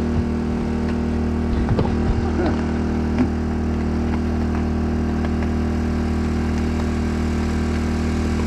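Generator engine running at a steady speed, a constant hum.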